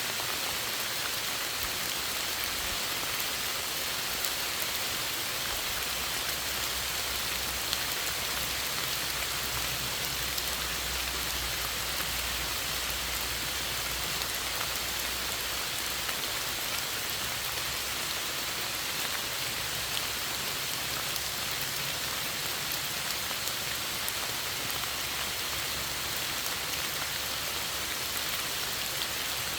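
Steady rain falling: a continuous even hiss of drops, with a faint low rumble underneath through roughly the first half.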